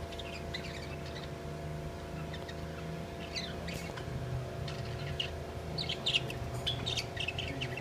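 Small cage birds chirping in short, scattered high calls, sparser at first and busier in the second half, over a steady low hum.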